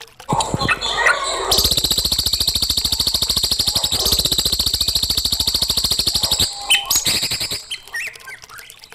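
A songbird's song: a few quick chirps, then a fast, even trill of many notes a second that runs for about five seconds and stops abruptly, followed by a few more chirps.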